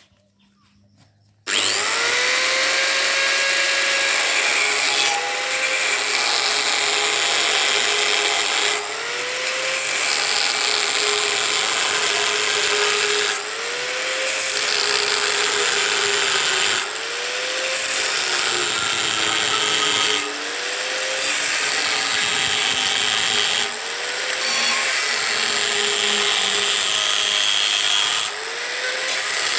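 Electric power tool cutting into a hollow steel pole, starting suddenly about a second and a half in. It runs loud and steady, its pitch dipping every three to four seconds and climbing back as the cut bites and eases.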